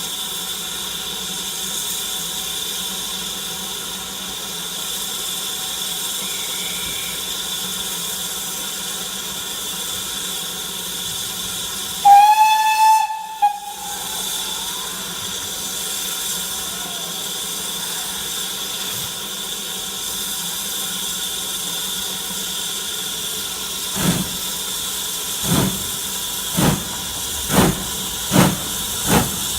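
BR Standard Class 4MT steam locomotive standing with a steady hiss of steam. About halfway through it sounds its whistle once, loud, for about a second and a half. Near the end its exhaust starts to beat as it sets off, the chuffs coming faster as it gathers speed.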